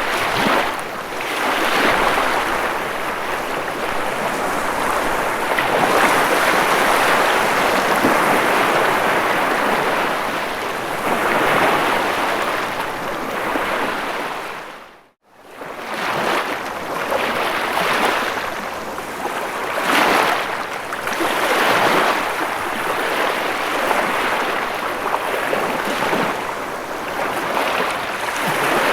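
Ocean surf: waves washing in a continuous hiss that swells and ebbs every few seconds. About halfway through, the sound fades to silence for a moment and comes straight back.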